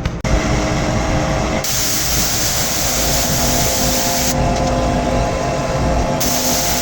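A machine running with a steady hum, with two long stretches of loud hissing air or spray, the first beginning about one and a half seconds in and the second near the end.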